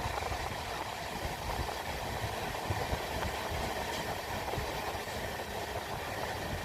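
Steady rumble and rail noise of a moving train.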